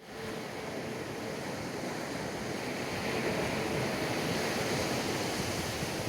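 Wind and sea water rushing in a steady wash of noise, with a faint steady hum underneath.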